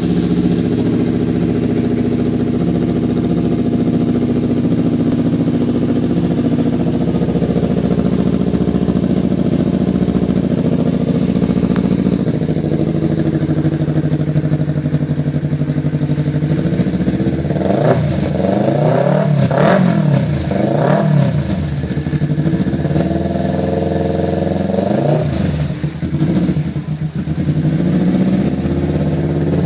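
Four-stroke Kawasaki Ninja motorcycle engine breathing through an SPR Racing F16 aftermarket racing exhaust. It idles steadily, then is revved up and back down in a few quick blips over the second half, and settles back to idle.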